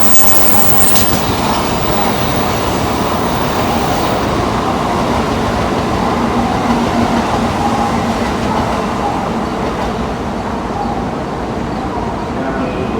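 Steady rumbling noise of a Tokaido Shinkansen train, with a brief high hiss in the first second that eases slightly in level near the end.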